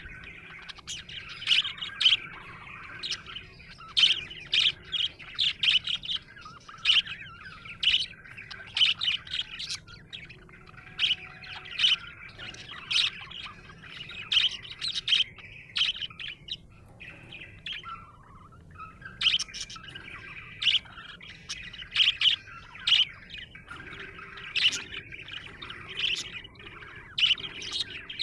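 Budgerigar chirping and warbling: a run of short sharp chirps over continuous chatter, with a brief lull past the middle.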